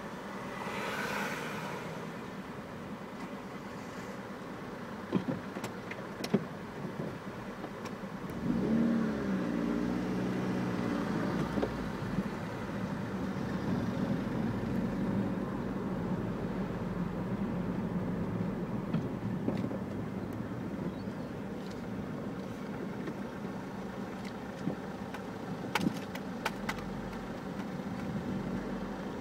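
Car engine heard from inside the cabin, idling, then revving up as the car pulls away about eight seconds in and carrying on at low speed. A few sharp clicks are heard along the way.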